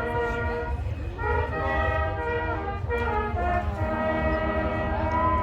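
Ensemble of hunting horns playing a tune in held chords, the notes shifting together about once a second.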